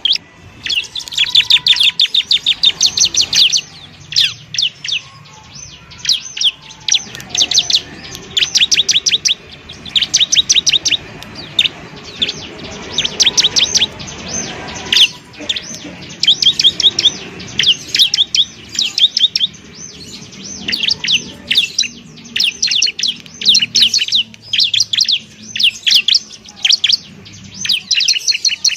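Ciblek (bar-winged prinia) singing: fast trills of sharp, high chirps in bursts of a second or two, with short pauses between.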